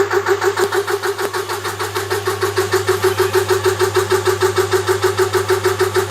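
Air compressor running steadily as it inflates a car tyre, with a regular pulsing about six times a second over a constant hum.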